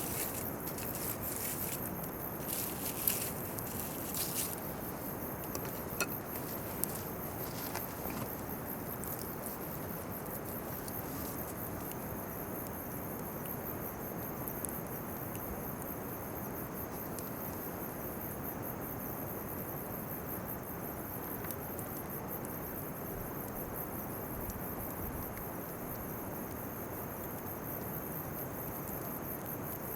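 Bonfire of weeds and chestnut burs crackling and popping, with sharp cracks thickest in the first few seconds and a few single pops later, over a steady low rush. Insects trill steadily and high-pitched throughout.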